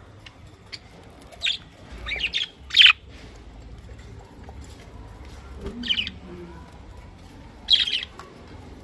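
Budgerigars giving short chirping calls in scattered bursts, about five in all, the loudest about three seconds in.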